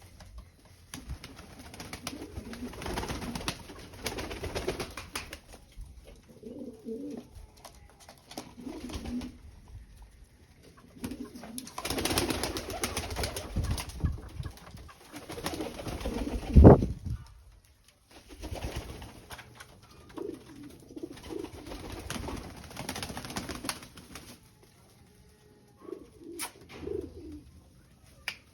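A pet bird giving short, low, wavering calls on and off, with stretches of rustling and one loud thump about two-thirds of the way through.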